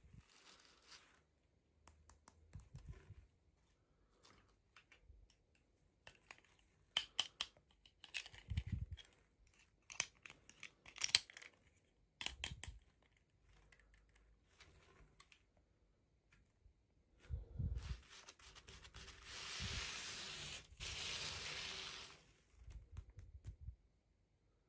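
Toy packaging being opened by hand: scattered clicks and plastic crinkles, then a longer tearing sound lasting about three seconds near the end.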